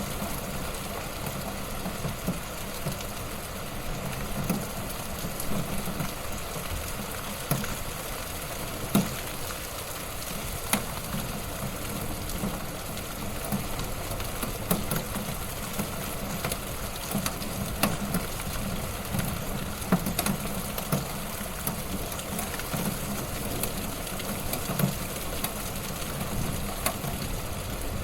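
Wood fire burning in a fireplace: a steady hiss of flames with irregular sharp crackles and pops, a few louder snaps among them.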